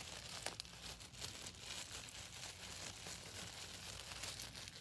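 Packaging bag being crinkled and torn open by hand, an uneven rustling with scattered sharp crackles.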